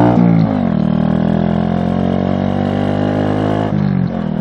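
SSR Razkull 125 mini bike's single-cylinder four-stroke engine running under way. The revs drop just after the start, climb slowly for about three seconds, then drop again near the end.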